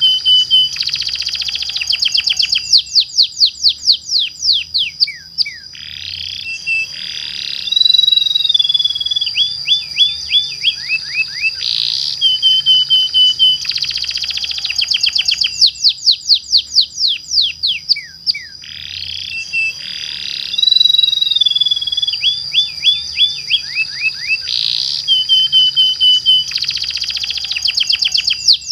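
Domestic canary singing long rolling trills: rapid runs of repeated high notes with held whistled tones between them. The same song phrase comes round again about every 13 seconds.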